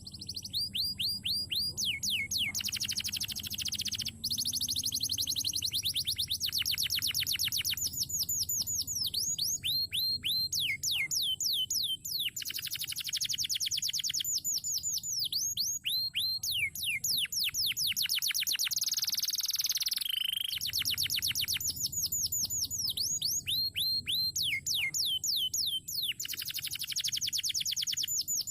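Crested canary singing a long unbroken song: runs of rapid, repeated down-slurred notes alternating with dense rolling trills.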